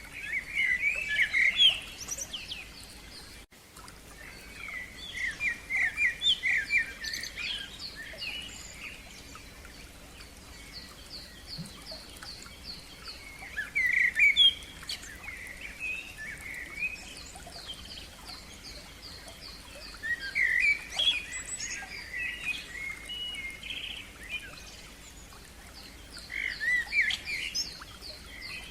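A songbird singing in phrases every few seconds, some made of quick runs of repeated high notes, over a faint steady outdoor background.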